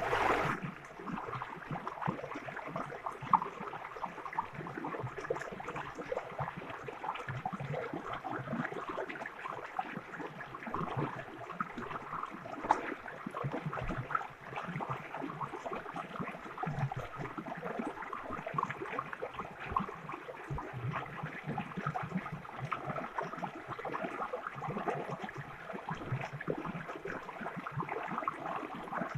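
Stream water running and gurgling without a break, with two brief sharper clicks or splashes.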